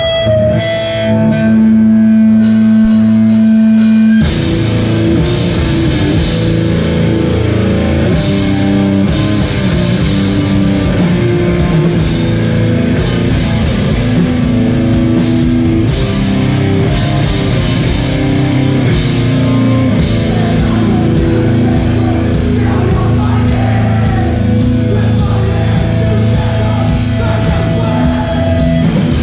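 Live hardcore band playing loud, distorted rock. A single note is held for the first few seconds, then the full band with drums and cymbals comes in about four seconds in and plays on.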